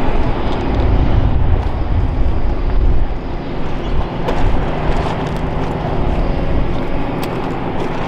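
Heavy demolition machinery running on site: a steady, loud low rumble with a few faint knocks.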